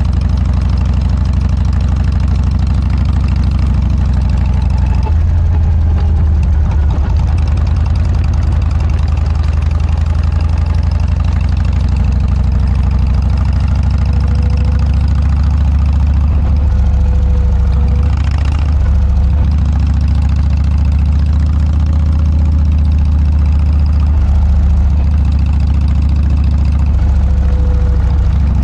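Harley-Davidson Dyna's V-twin engine running through a Motorstage aftermarket muffler: a steady, deep exhaust note that shifts a little in pitch now and then.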